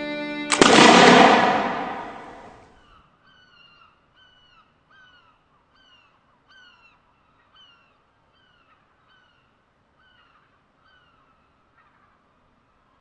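Music ends in a loud crash that rings away over about two seconds. A bird then calls faintly over and over, short down-slurred calls about twice a second that thin out near the end.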